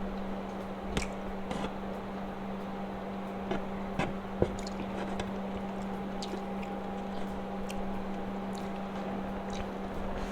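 Close-up wet chewing and mouth sounds of someone eating, with several short sharp clicks, the loudest a little over four seconds in, over a steady low electrical hum.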